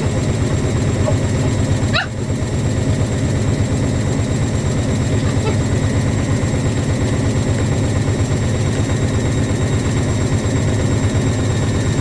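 Two front-loading washing machines spinning at high speed together, a Fisher & Paykel WM1490F1 at about 1200 rpm and a Hoover Ecologic A8582 washer dryer: a loud, steady, fluttering drum rumble with a faint motor whine above it.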